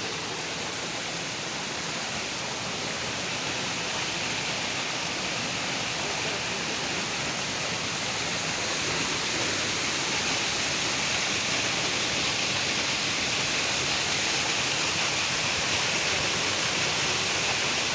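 Waterfall: a steady, even rush of falling water that slowly grows a little louder.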